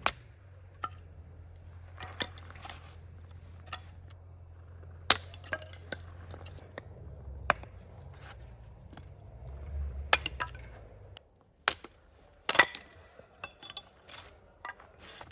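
Scattered clinks, knocks and sharp cracks of hands handling camp cookware and firewood while a campfire is set up, about a dozen separate hits. A low steady rumble runs underneath and stops about eleven seconds in.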